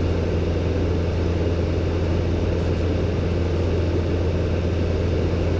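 Robin DR400-120's four-cylinder Lycoming engine droning steadily in cruise flight, a constant low hum.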